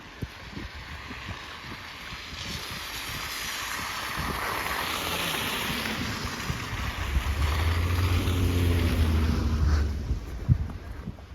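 Snowstorm wind gusting, swelling over several seconds, with a heavy low rumble of wind buffeting the microphone near the end before dying down.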